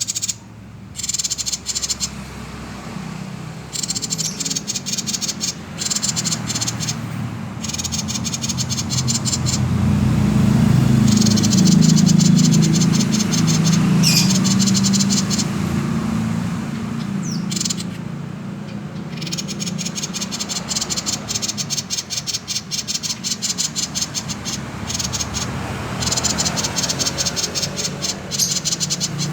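Common iora (cipoh/sirtu) giving its 'konslet' call: repeated bursts of very fast rattling chatter, each a second or two long, over a steady low hum.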